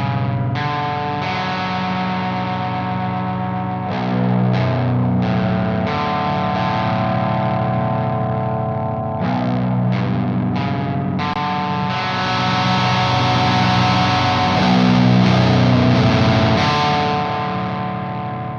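Electric guitar in B standard with passive pickups, played through the Frost Giant Electronics 'The Mountain' pedal in overdrive mode into a Sunn Beta Lead amp. Picked arpeggiated chords with saturated overdrive, the notes ringing into each other; from about two-thirds of the way through, one chord is left ringing and then stops short at the end.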